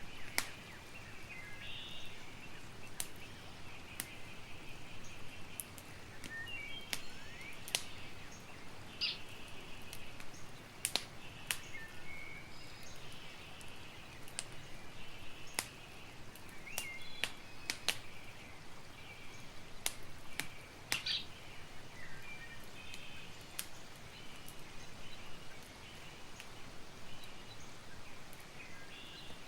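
Campfire crackling, with sharp irregular pops and snaps over a low steady hiss, while birds chirp in the background.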